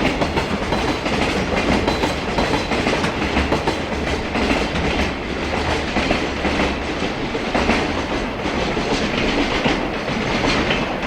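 Container freight train's wagons rolling past close by, a steady noise with repeated wheel clatter over the rail joints.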